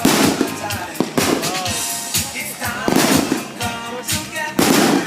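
Fireworks going off in four loud crackling bursts about a second and a half apart, over music.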